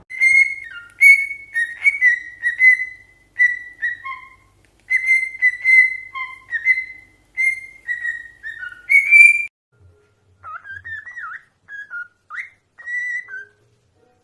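A pet parrot whistling a tune: a quick string of clear whistled notes near one pitch, then, after a short pause about nine and a half seconds in, a few quieter sliding whistles.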